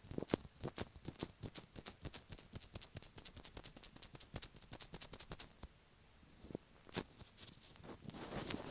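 Latex-gloved fingertips tapping rapidly on an earphone microphone, many quick taps a second, stopping about five and a half seconds in. One more sharp tap follows about a second and a half later, then a soft sticky rubbing near the end.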